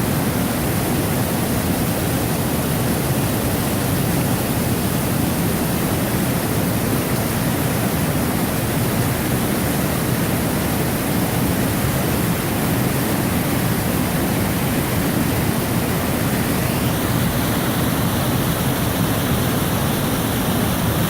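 Large waterfall: a loud, steady rush of falling water that does not change.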